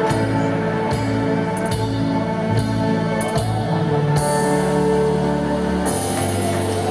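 Live band playing an instrumental passage: held chords with sharp percussion strikes through it, and a swelling high shimmer in the second half.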